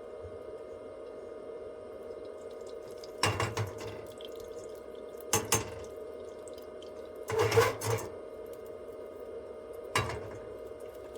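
Four short bursts of clattering, like objects being handled and knocked together, over a steady hum; the third burst is the longest and loudest.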